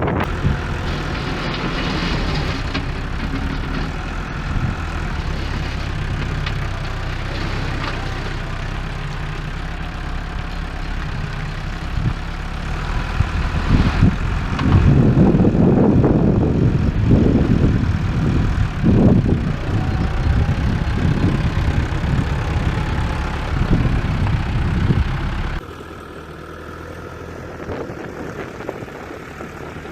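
Diesel engine of heavy machinery running steadily. About halfway through it gets louder and rougher, as if under heavy load. Near the end it drops suddenly to a quieter, even running.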